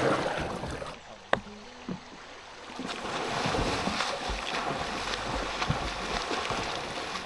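River water rushing and splashing around kayaks, with one sharp knock a little over a second in; the water grows louder and steadier from about three seconds in.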